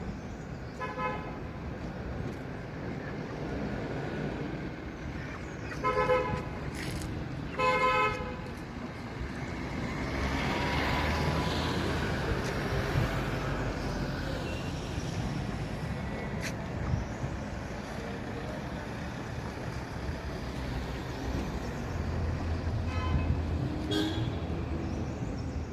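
Road traffic with vehicle horns honking in short toots, about a second in, twice around six to eight seconds in, and again near the end.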